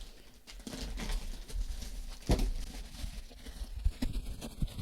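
A shipping package being handled and opened: irregular rustling and small clicks from the packaging, with one louder knock a little over two seconds in.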